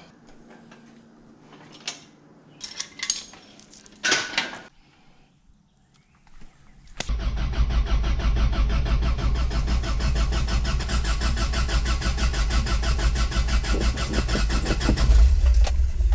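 A few clicks and knocks, then about seven seconds in a 1986 Toyota pickup's freshly rebuilt 22R four-cylinder engine is cranked over by the starter in a steady, rapid pulsing rhythm for about nine seconds, cutting off suddenly near the end: a first start attempt after the rebuild.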